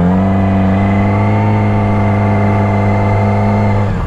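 A motor vehicle's engine rising in pitch and then holding a steady pitch, cutting off abruptly near the end.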